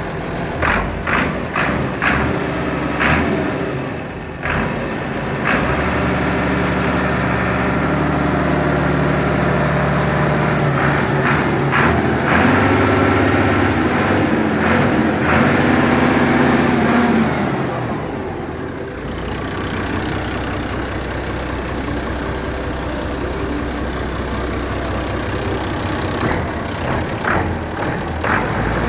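Massey Ferguson 1615 tractor engine running, with a string of sharp knocks and clicks in the first few seconds. It runs louder and higher for about ten seconds, then drops back to a steady idle about two-thirds of the way through.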